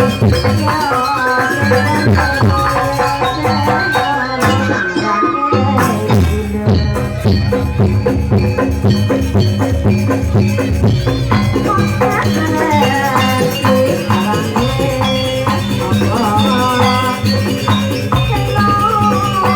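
Live jaranan music: an East Javanese ensemble with drums and gongs playing continuously under a wavering high melody, with a steady jingling rattle running through it.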